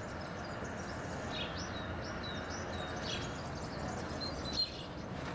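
Small birds chirping in short, high calls over a steady hiss of open-air ambience.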